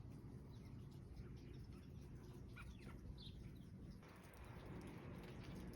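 Faint chirps and short call notes from small songbirds, several of them gliding down in pitch and bunched near the middle, over a steady low background rumble.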